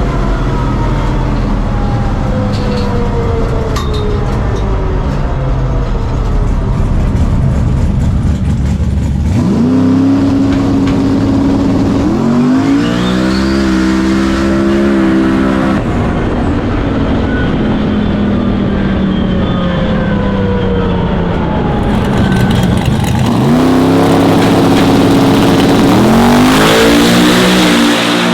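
Engine of a twin-turbo drag-racing truck at full throttle during a pass. Its pitch sweeps up and holds, then drops back, several times over.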